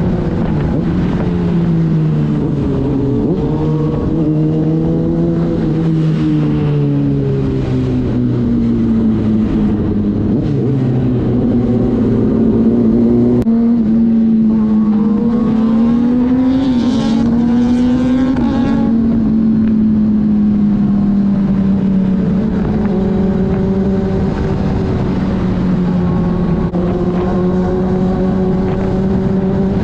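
Inline-four sport bike engines running at highway cruising speed, with the engine note rising and falling as the riders ease off and open the throttle. The pitch climbs for a few seconds around the middle, then holds steady, over a constant rush of wind.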